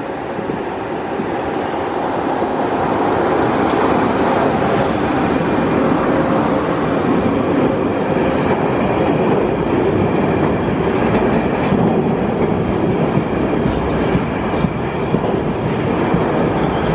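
A train running through, its noise building over the first few seconds and then holding steady, with scattered clicks from the wheels on the rails later on.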